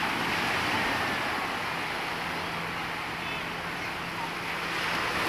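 Sea water washing, with wind on the microphone and a faint steady low hum through the middle.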